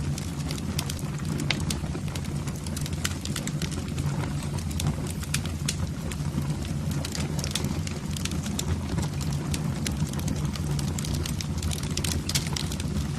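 Wood fire in a fireplace crackling and popping, with many sharp irregular snaps over a steady low rumble.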